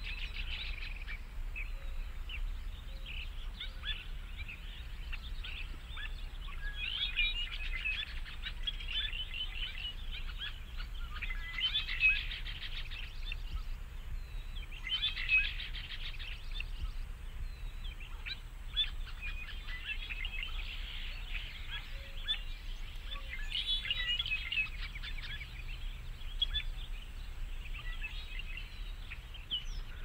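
Small birds chirping, a dense, continuous run of short high calls, over a faint low hum.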